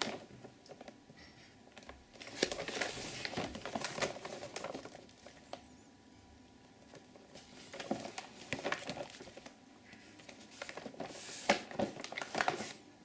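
Firework cakes being handled and swapped over by hand: crinkling, rustling and light knocks in several spells.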